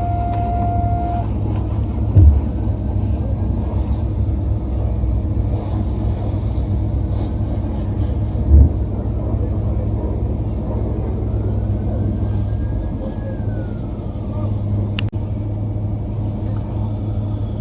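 Steady low rumble inside the cabin of a BMW M5 idling, with two brief heavy low thumps, about two and eight seconds in, and a sharp click near the end.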